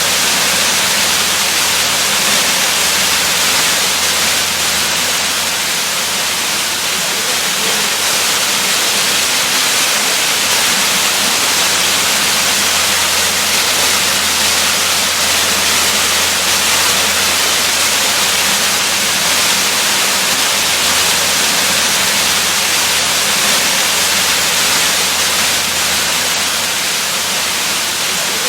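Waterfall: falling water crashing in a steady, unbroken rush, heavy in the hiss.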